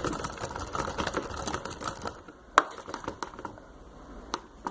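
Typing on a computer keyboard: a quick run of key clicks for about two seconds, then a single louder click, and another near the end.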